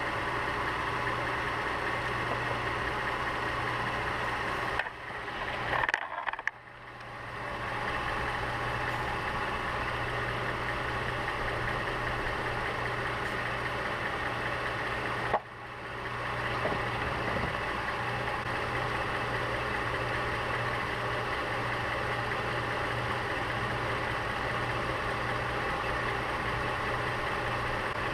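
Mercedes-Benz GLK 350's 3.5-litre V6 idling steadily, kept running so the automatic transmission fluid level can be checked at the fill plug. Two short knocks cut in, one about five to seven seconds in and another about fifteen seconds in.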